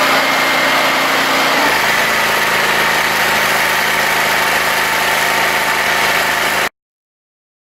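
An engine running steadily, its low hum shifting slightly in pitch about a second and a half in, then cutting off abruptly near the end.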